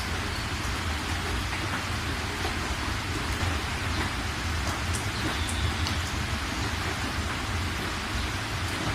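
Steady heavy rain falling in an even hiss, with a steady low rumble beneath it and a few separate drops ticking through.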